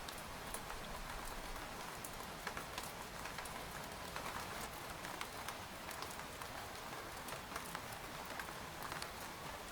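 Steady rain falling on a tent, with many scattered individual drops tapping on the fabric over an even patter.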